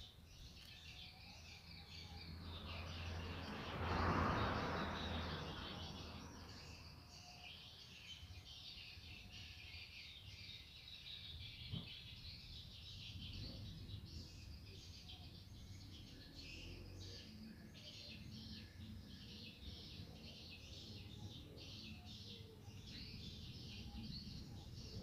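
Birds chirping continuously in the background. A louder rush of noise swells and fades about four seconds in.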